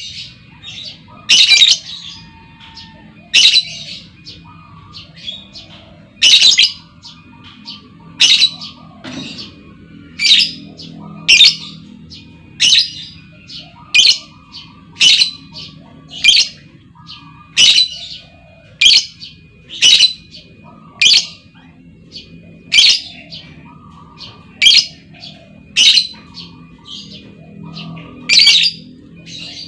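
Female lovebird calling: short, sharp, high-pitched calls repeated about every second to second and a half, over a faint low hum.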